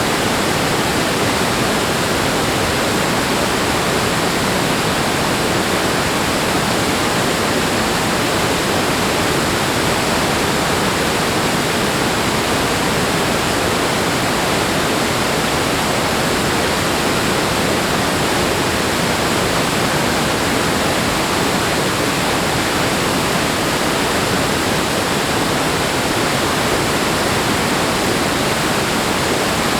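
Rushing water, a dense, steady roar with no surges or breaks.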